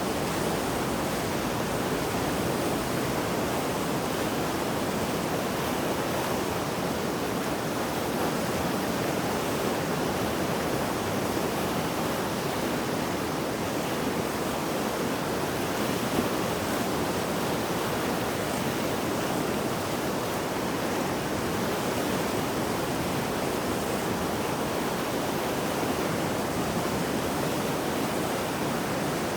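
Mountain river in spate after heavy rain, rushing water making a steady, even roar.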